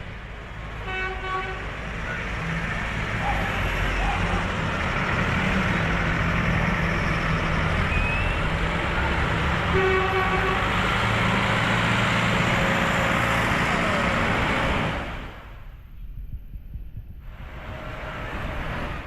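Tractor engines running steadily as tractors go by, with a horn tooted briefly twice, about a second in and again about ten seconds in. The engine noise drops away about fifteen seconds in.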